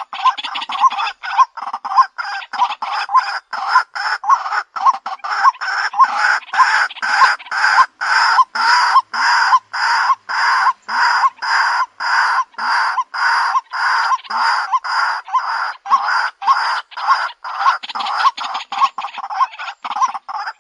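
White-breasted waterhen calling: one short note repeated rapidly and evenly, about two to three times a second, in an unbroken series.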